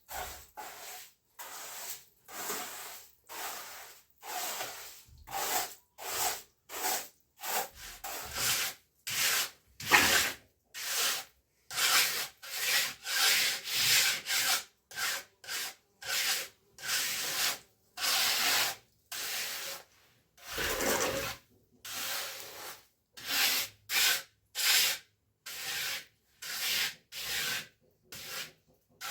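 Hand trowel scraping and smoothing cement in quick back-and-forth strokes, about one and a half a second, with a brief pause and one longer, lower stroke about two-thirds of the way through.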